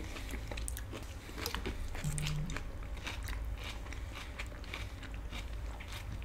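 Close-miked chewing and crunching of food, with many small irregular crunches and wet mouth clicks, and a short low hum about two seconds in.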